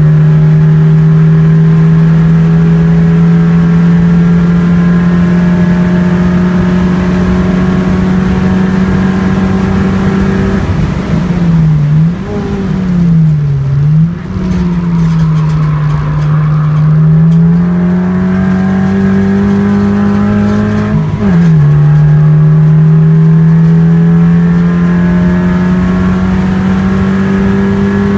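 A race car's engine heard from inside the cabin, held near full throttle with its pitch slowly climbing. About ten seconds in it lifts off and the pitch dips and recovers twice through a corner. It then pulls up again and drops sharply once about two-thirds of the way through, as at a gear change, before climbing again.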